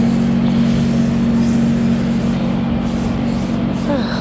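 A steady motor drone, an even hum over a hiss, running without change; a brief vocal sound comes near the end.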